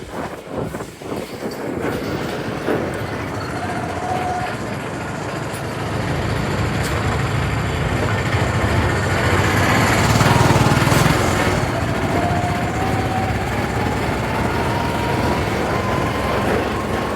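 Scooter running on a ride, with continuous road and traffic noise. A whine rises slowly in pitch over the last few seconds.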